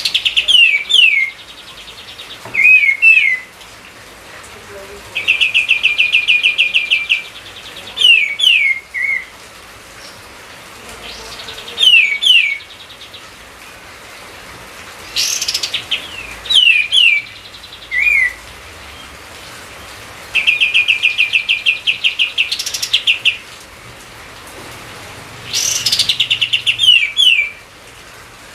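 A songbird singing loud, repeated phrases: quick downslurred whistles in pairs and threes, alternating with rapid trills that each last about two seconds. The same sequence comes round again roughly every fifteen seconds.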